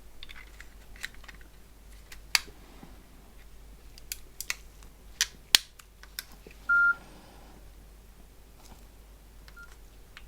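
A string of sharp plastic clicks as a memory card is pushed into a Nokia 6680 and the phone is handled, then a short steady electronic beep from the phone about seven seconds in and a much fainter one near the end.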